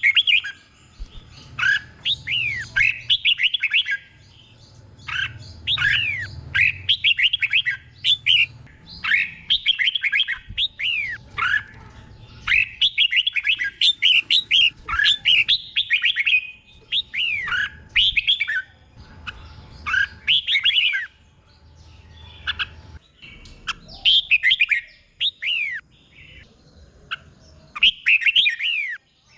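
Red-whiskered bulbul singing: quick bursts of short, sweeping whistled phrases, repeated again and again with brief pauses between the bursts.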